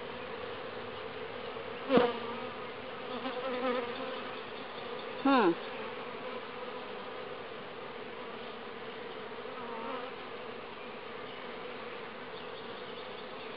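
Honeybee colony buzzing in a steady hum around the open hive, with a couple of louder buzzes whose pitch slides sharply down, about two and five seconds in, as single bees pass close.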